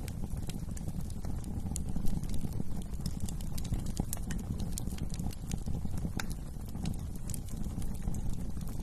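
Wood fire crackling in a fireplace: irregular sharp pops and snaps over a steady low rumble of the flames, with a louder burst of pops about two seconds in.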